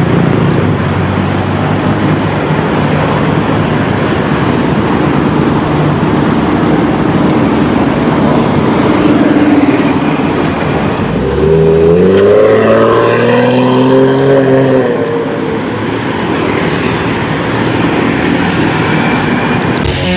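Porsche 911 Carrera (996) flat-six engine running through an aftermarket full exhaust system. It runs steadily, then revs up about eleven seconds in, holds high for a few seconds, and drops back to a steady lower note.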